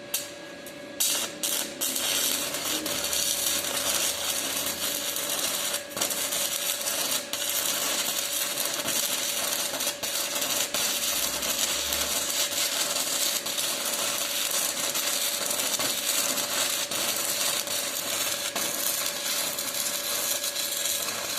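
Stick-welding arc from an E60-series electrode crackling and sputtering steadily while laying a root pass, after a short burst as the arc is struck. It falters briefly a few times, which the welder puts down to a machine that does not hold the arc steady.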